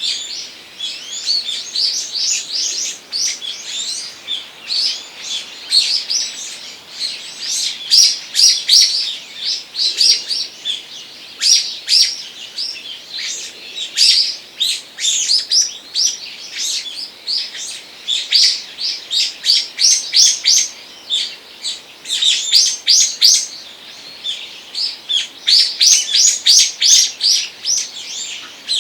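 Several small songbirds chirping at once: quick runs of high, sharp notes that overlap almost without a pause.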